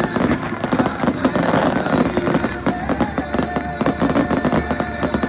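Fireworks barrage: many aerial shells bursting in rapid, overlapping succession, a continuous mix of bangs and crackle with no pause.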